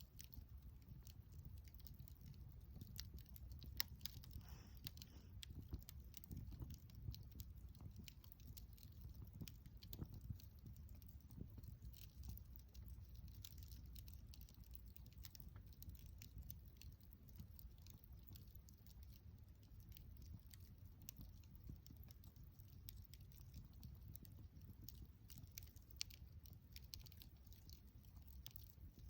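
Wood fire crackling faintly, with irregular small pops and two sharper pops, one about four seconds in and one near the end.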